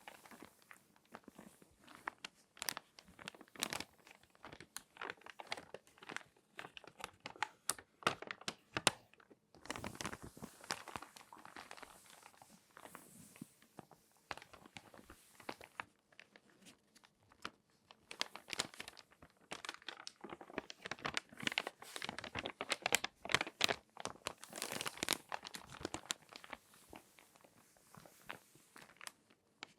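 Crinkly glossy magazine pages being folded and creased by hand close to the microphone: dense, irregular crackling and crinkling that comes in busier and quieter stretches.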